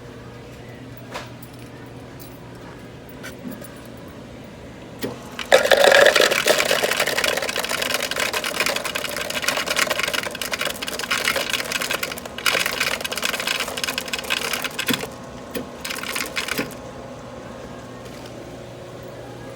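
A self-serve drink machine dispensing: a loud, noisy, uneven mechanical rush that starts suddenly about five seconds in, runs for about eleven seconds and then stops, over a steady store hum.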